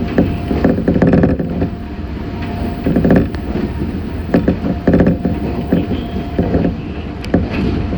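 Meitetsu 6500 series electric train running at speed, heard from inside the car: a steady rumble with irregular knocks and clatter from the wheels on the track.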